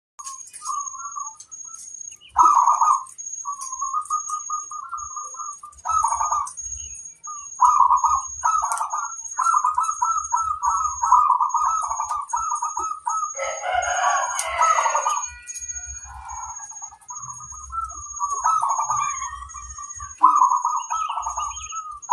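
Zebra doves (perkutut) singing their rippling, staccato cooing song in repeated phrases, with several birds answering one another. A louder, harsher call breaks in about two-thirds of the way through, and a faint high tone pulses about twice a second throughout.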